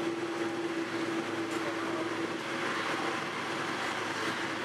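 Munich tram running, heard from inside the passenger car: steady running noise of the wheels on the rails with a steady hum from the drive, the hum fading near the end.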